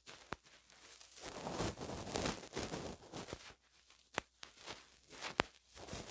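Close-miked ASMR trigger sounds on a pin microphone: a soft hiss of rubbing or blowing that swells and fades over a couple of seconds, with a few sharp clicks later on.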